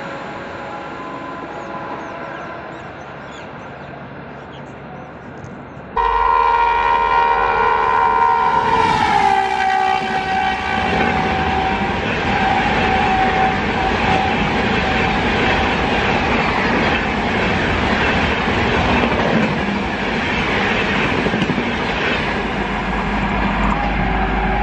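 Train horn sounding in the distance. About six seconds in, the loud multi-tone horn of an electric locomotive hauling a Duranto Express at about 130 km/h blares; its pitch drops as the locomotive passes, and then comes the continuous rush and clickety-clack of the coaches' wheels running over the rail joints at speed. Near the end a horn starts again.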